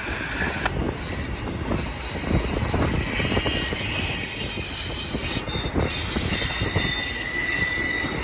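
BNSF freight train rolling by, its wheels squealing against the rails in several steady high tones over a continuous rumble and clatter of wheels on track.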